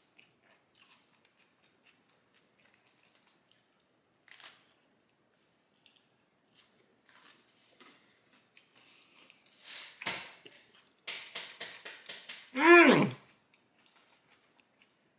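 Close-up chewing of Caesar salad with croutons: faint mouth clicks at first, then a run of louder crunches about ten to twelve seconds in. Right after comes the loudest sound, a short voiced hum from the eater that falls in pitch.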